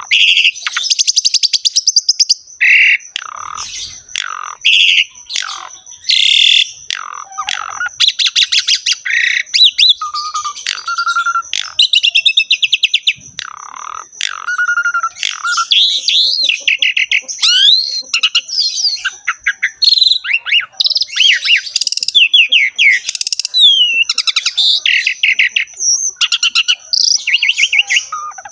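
Asian pied starling (jalak suren) singing without pause: a fast, varied stream of clear whistles, rapid trills and harsh chattering notes, full of borrowed phrases from other birds' songs.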